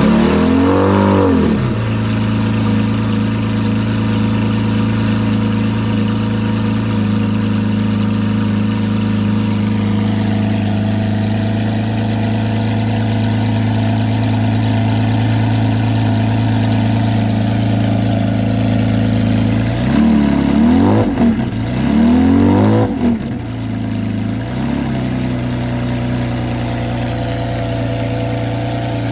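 Bugatti EB110 GT's quad-turbocharged 3.5-litre V12 settling from its start-up flare into a steady idle. About twenty seconds in it is blipped three times, the last one smaller, and then idles steadily again.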